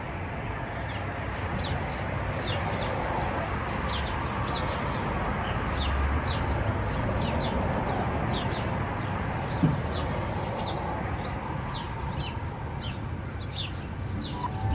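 Birds chirping over and over, short high calls repeating irregularly, over a steady background hiss and rumble. There is one brief low knock about two-thirds of the way through.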